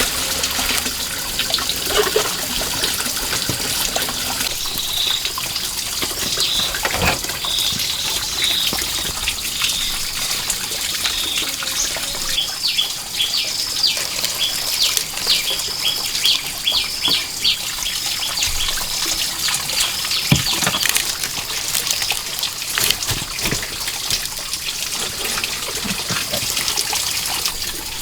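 Water running steadily with a trickling, splashing hiss, with a run of short high chirps in the middle and a few light knocks.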